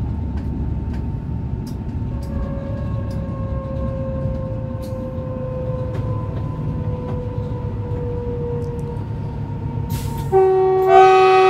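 Electric train running on the track with a steady rumble and a faint whine that slowly drops in pitch. Near the end its horn sounds, held, as the warning ordered for an unguarded level crossing.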